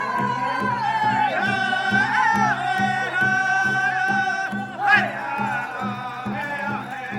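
Powwow drum group singing: high, held vocables over a steady drumbeat of about two beats a second. A sharp, loud rising call cuts through about five seconds in.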